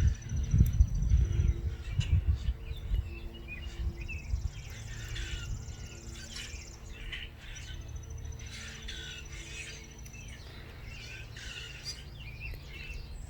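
Many small songbirds chirping and twittering at once. A loud low rumble on the microphone dominates the first few seconds, then fades, leaving a faint steady low hum under the birds.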